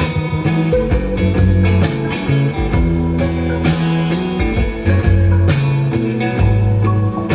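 Live band playing an instrumental blues-rock passage: guitar over held bass notes, with a drum kit keeping a steady beat.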